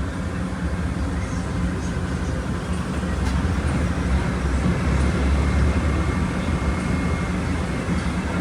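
Volkswagen Volksbus 17.230 Euro 6 bus engine running under way, a steady low drone that swells a little midway.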